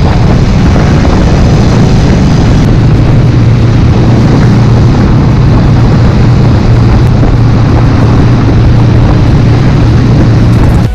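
Yamaha V-Ixion motorcycle engine running loud and steady, a constant low drone with no change in pitch, cutting off suddenly at the end.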